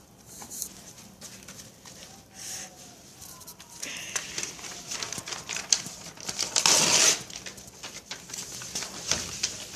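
Small fire of crumpled paper crackling, with scattered snaps that grow denser from about four seconds in and a louder rustling burst about seven seconds in.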